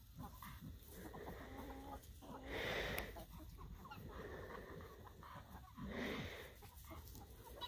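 Chickens clucking faintly, with two louder squawks: one about two and a half seconds in and another about six seconds in.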